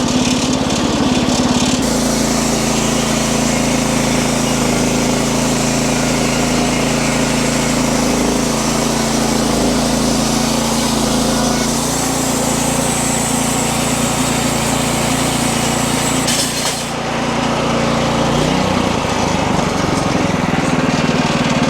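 Wood-Mizer LX50 Super bandsaw mill running under load, its engine steady and the band blade cutting through a log with a dense, harsh hiss, the blade running without water. About 17 seconds in the cutting hiss drops away and the engine note shifts, then the sound stops abruptly; the sawyer first took the noise for a thrown blade, then put it down to the idler pulley.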